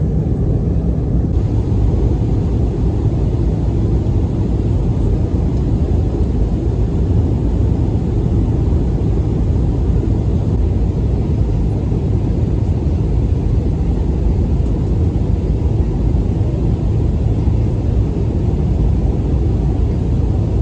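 Steady low rumble of engine and air noise inside an Airbus A319 airliner's cabin, even and unbroken.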